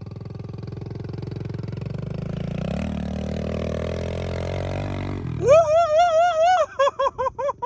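Kawasaki KLX110R's small four-stroke single-cylinder engine pulling under throttle up a steep hill, growing louder and rising in pitch about halfway through, then cutting off suddenly about five seconds in. A person then whoops 'woo!' in a wavering voice.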